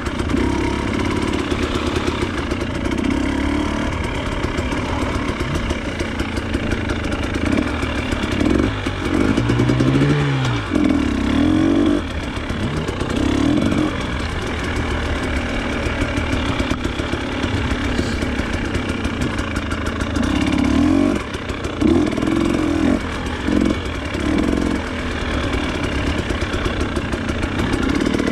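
Off-road trail motorcycle engine running under the rider, with repeated bursts of throttle where the pitch rises and falls, mostly about a third of the way in and again past the two-thirds mark.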